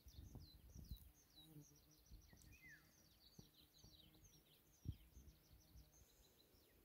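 Near silence with faint birdsong: many short, high chirps sliding downward in pitch, with a few soft low bumps, one a little louder about five seconds in.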